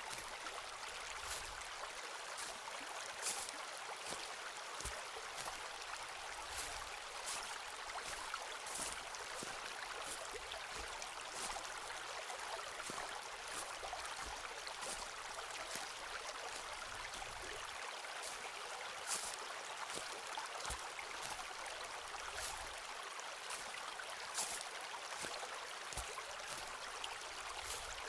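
Footsteps walking through a forest, short crunching steps every second or two, over a steady rushing background like a stream.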